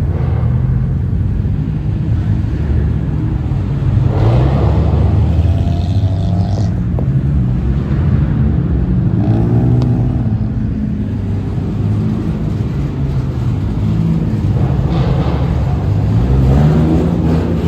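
Car engines running close by, with a rev rising and falling in pitch about nine seconds in and again near the end.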